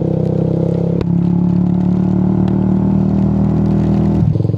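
Motorcycle engine running steadily at low speed, with a sharp click about a second in and a change in engine note near the end.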